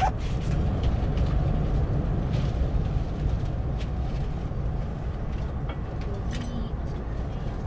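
Steady low rumble of Airbus A380 cabin background noise, with a few faint clicks and rustles over it.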